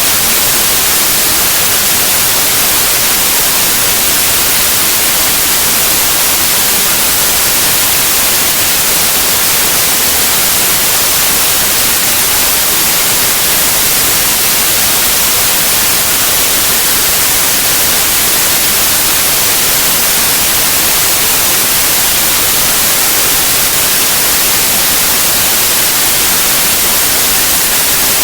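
Steady, loud white noise: an even, unchanging hiss, brightest in the high frequencies.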